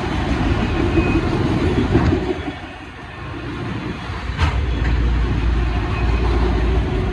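Freight train rolling past, a steady low rumble of wheels on the rails, with a sharp clank about four and a half seconds in followed by a steadier low drone.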